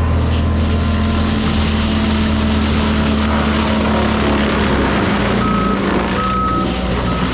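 Forestry mulcher running steadily. From about five seconds in, a backup alarm beeps about once a second as the machine reverses.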